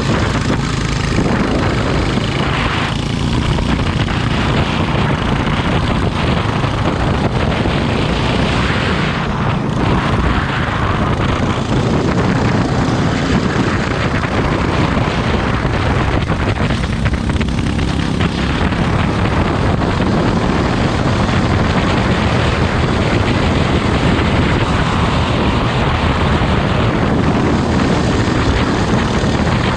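Racing kart engine running at speed, with loud wind noise over it.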